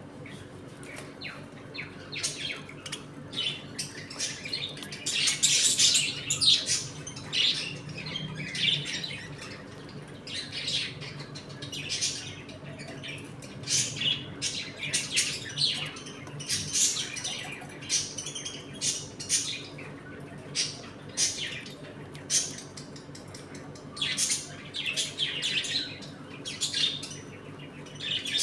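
A colony of budgerigars chirping and chattering, many short high calls overlapping, busier in stretches.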